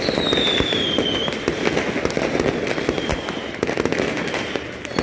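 Fireworks and firecrackers popping and crackling without a break, with a high firework whistle that falls slightly in pitch during the first second.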